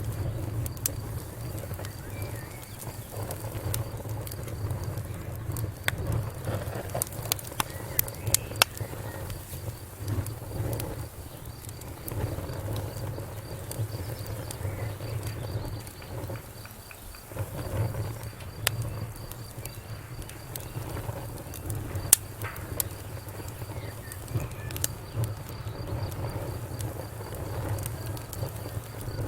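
Wood fire burning in a fireplace: a steady low rumble of flame with frequent sharp crackles and pops, a burst of them about a quarter of the way in and one louder pop about two-thirds through.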